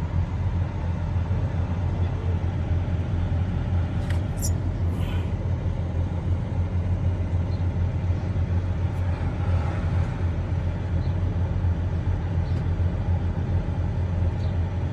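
Steady low rumble with no change in level, and a brief high-pitched squeak about four seconds in.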